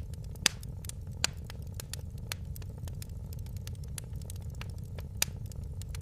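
Wood fire crackling: sharp pops and snaps over a steady low rumble of burning, with the loudest pops about half a second in, a second later, and near the end.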